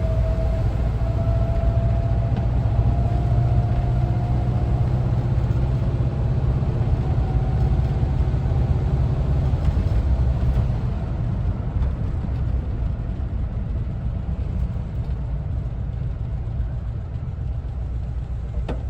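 1974 Volkswagen Westfalia camper's air-cooled engine and road noise while driving. The engine pulls steadily with a faint rising whine for the first few seconds, then eases off about eleven seconds in into a lower, quieter rumble.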